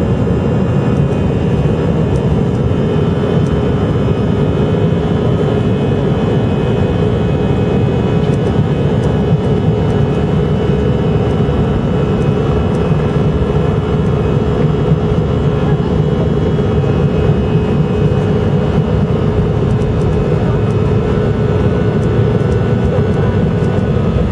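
Airbus A319-111's CFM56 jet engines running, heard inside the passenger cabin: a steady rumble with several constant whining tones above it.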